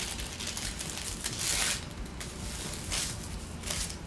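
Tissue paper rustling in short bursts as it is folded back and forth into an accordion fold, the loudest about a second and a half in.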